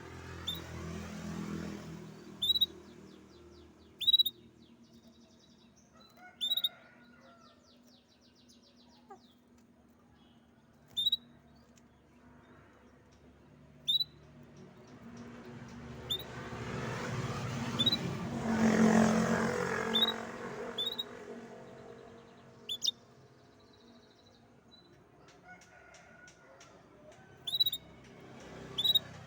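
A canary giving single sharp, downward-sliding chirps every two or three seconds, with a couple of brief rapid trills between them. A broad low noise swells and fades in the middle.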